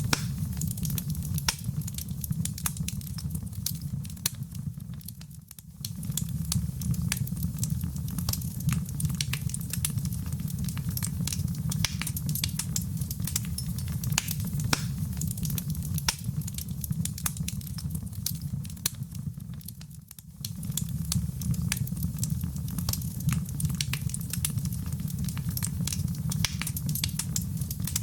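Fireplace fire crackling and popping with many sharp snaps over a steady low rumble. The sound dips briefly twice, about five and twenty seconds in.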